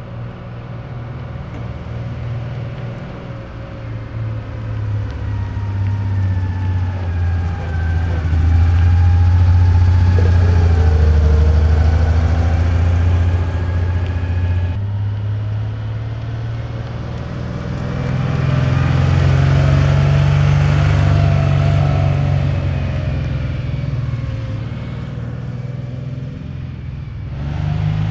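1965 Porsche 911's air-cooled flat-six engine running as the coupe drives past, its note rising and falling in pitch with the throttle. It grows louder to a peak, breaks off suddenly about fifteen seconds in, then swells again on a second pass.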